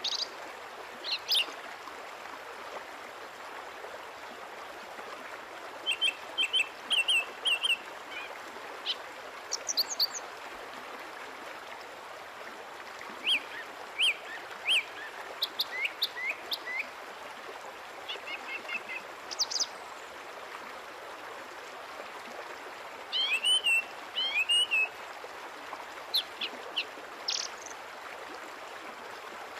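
Small birds chirping in short, high clusters every few seconds over a steady background hiss.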